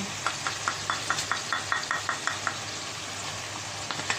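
Chicken and pear cubes frying in oil in a kadai, a steady sizzle. In the first two and a half seconds there is a quick run of about a dozen light ticks, about five a second.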